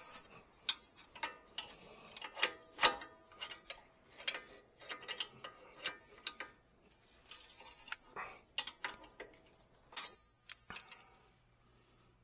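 Irregular sharp clicks and light knocks, about two or three a second, from hand-tool work on car parts. They stop shortly before the end.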